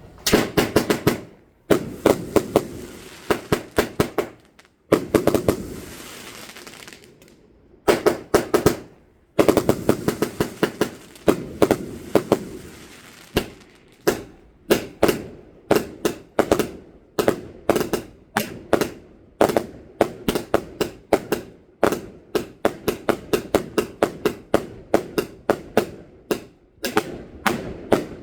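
Fireworks going off in quick succession: rapid volleys of sharp bangs with crackling between them, then from about halfway a steady run of bangs about two a second.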